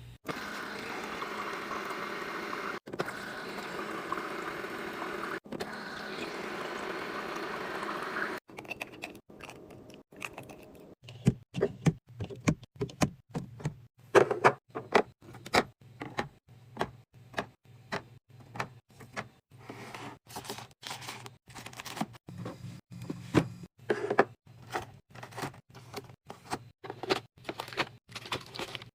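A steady rushing noise for about eight seconds, then a long string of knocks and clicks, about one or two a second, over a faint low hum: food containers and packaging being handled and set down on fridge shelves.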